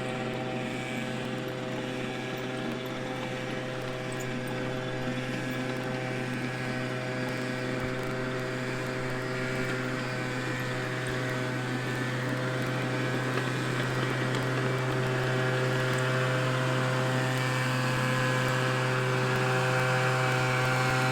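Leaf blower running at a steady pitch, a constant hum over a rushing hiss, slowly growing louder.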